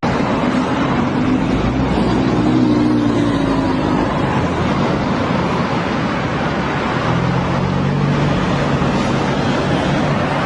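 Road traffic: a steady rush of passing vehicles, tyres and engines. One engine's hum stands out for a few seconds near the start, and a lower one from about seven seconds in.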